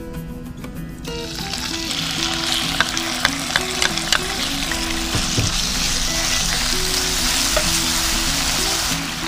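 Corned beef hitting hot oil in a nonstick frying pan, sizzling from about a second in, with a few sharp clicks around the third and fourth seconds.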